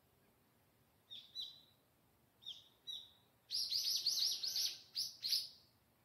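A wild bird singing: two pairs of short, high, downslurred notes, then a fast run of about eight louder downslurred notes near the end.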